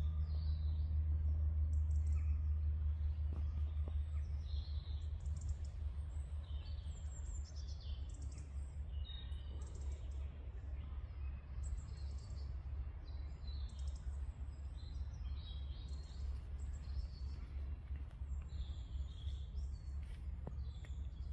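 Small birds chirping and singing in many short calls, over a low steady rumble.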